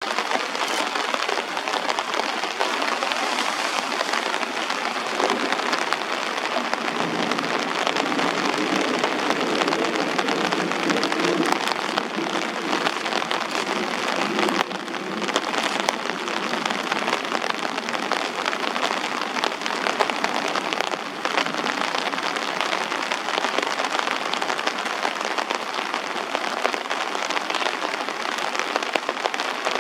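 Steady downpour of rain from a thunderstorm, falling and splashing on surfaces.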